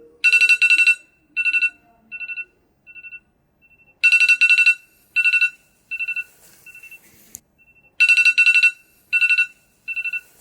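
A trilling telephone-style ring, sounding as a loud double ring about every four seconds, three times, each followed by fainter echoing repeats that die away.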